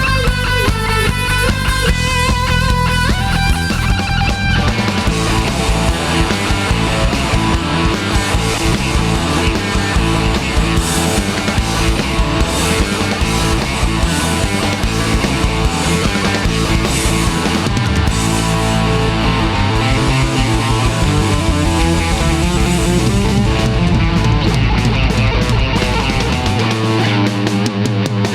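Rock band playing an instrumental break: an electric guitar melody leads over bass and drums. The opening seconds carry a clear single guitar line, then the full band thickens the sound.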